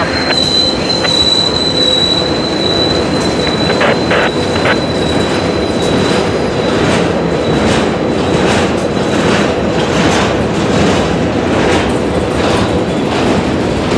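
Freight train of boxcars, coil cars and covered hoppers rolling past close by, its steel wheels clattering on the rails. A steady high wheel squeal rings over the rumble at first and fades out about halfway through.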